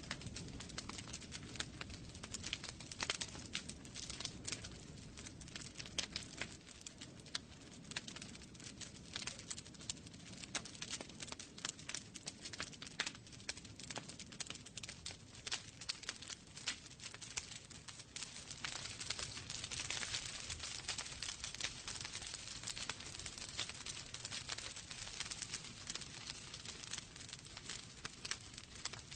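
Wood fire burning in a fireplace, logs crackling and popping continuously with a low rumble of flame beneath. About twenty seconds in, a brief hiss swells and fades.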